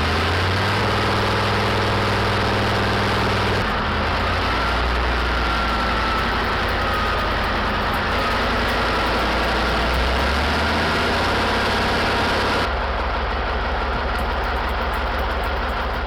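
Deutz industrial engine running steadily on test, with a deep, even firing note. The sound changes abruptly about four seconds in and again about thirteen seconds in.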